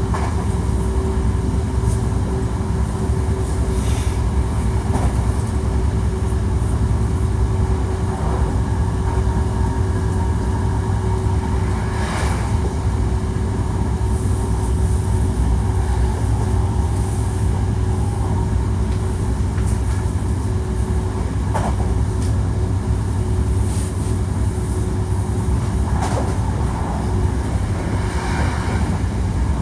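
Hankyu 1300 series electric train running at steady speed: a constant low rumble of wheels on rail with one steady hum held throughout, and a few scattered clicks from the track.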